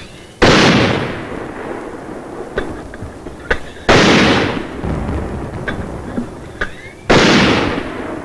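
Mortar fire: three loud blasts about three and a half seconds apart, each dying away over a second or so, with a few smaller sharp pops between them.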